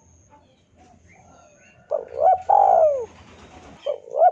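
Spotted dove cooing. A loud call of short notes ends in a long falling coo about two seconds in, and the next call begins near the end. Faint small-bird chirps come before it.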